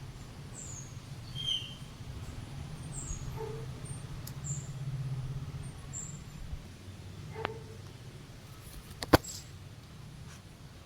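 Small birds chirping in short, scattered calls over a low steady hum, with a sharp click about nine seconds in.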